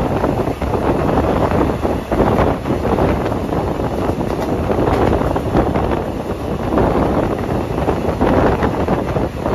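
Passenger train coach running on the track: a steady rush of wind over the microphone with the rumble and clatter of the wheels on the rails.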